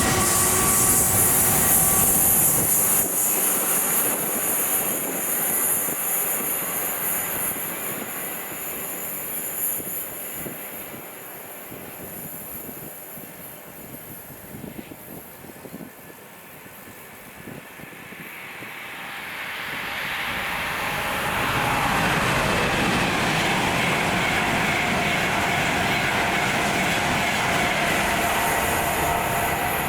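A train running past loudly with a bright high hiss, fading away over the first dozen seconds. About twenty seconds in, another train draws near and runs past steadily.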